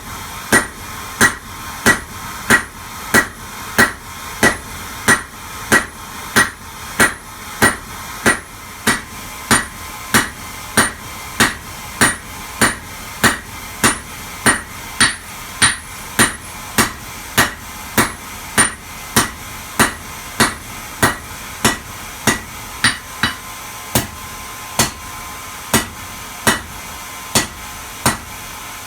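Forging hammer striking metal on an anvil in a steady rhythm, about one and a half blows a second, each blow ringing.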